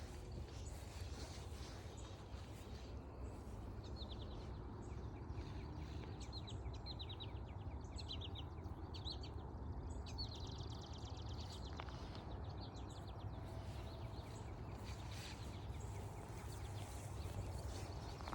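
A songbird sings a series of short high notes that run into a fast trill, lasting about ten seconds from a few seconds in. Under it are faint footsteps on a forest trail and a steady low rumble.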